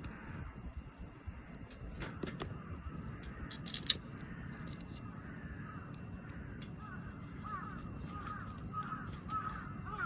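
Campfire burning with scattered sharp crackles and pops, the loudest about four seconds in. In the second half a bird calls repeatedly in short, quick notes.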